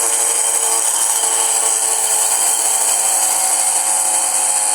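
Spinning gyroscope top of a Soviet toy airplane, freshly spun up by a pulled twine, giving a loud, steady whirring drone. The sound is more like a turboprop than a jet.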